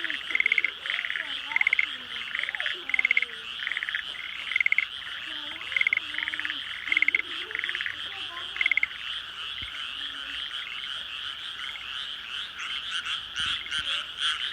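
Night chorus of several kinds of frogs in flooded rice paddies: a dense, continuous trilling mass of calls, with loud pulsed croaks from a nearer frog repeating about once a second for the first nine seconds or so.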